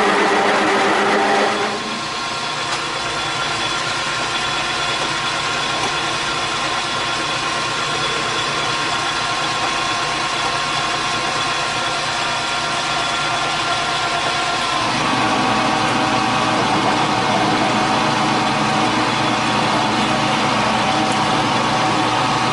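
Logan 8-inch metal shaper running under cut: a steady machine sound from its motor and reciprocating ram as it takes a deep 60-thou cut, which runs right on the edge of chatter. It is louder for the first second and a half, and the tone shifts and rises a little about two-thirds of the way through.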